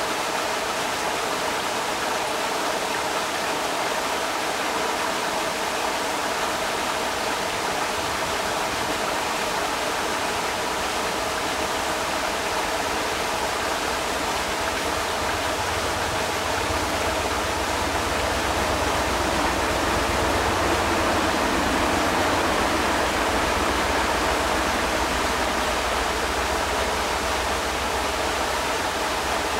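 Creek water rushing steadily. A deeper low rumble joins for about ten seconds past the middle, where the sound swells slightly.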